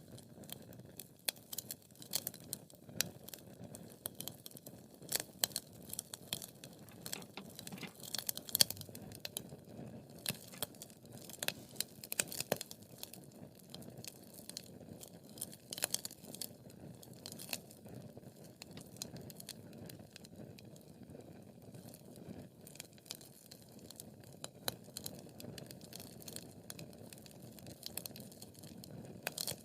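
Wood fire crackling in a fireplace: irregular sharp pops and snaps over a low steady hiss of burning logs, with a louder pop about eight and a half seconds in.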